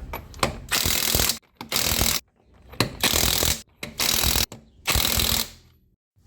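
Ratchet wrench being cranked in about five quick bursts of dense clicking, each roughly half a second long with short pauses between.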